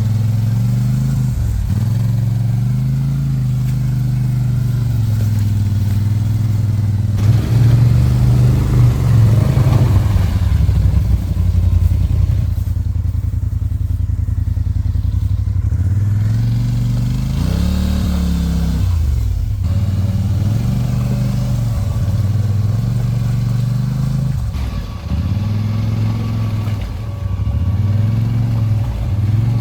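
1000 cc ATV engine running under load, revving up and easing off again and again, with a long rise and fall in pitch about two-thirds through.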